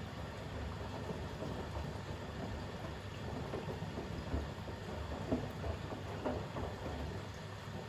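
Bosch WAX32GH1 front-loading washing machine in its final rinse, the drum turning towels through rinse water with a steady running hum and a few irregular sloshes in the middle.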